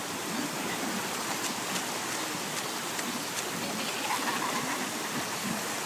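Steady rushing hiss of sea water, small waves washing around in the shallows.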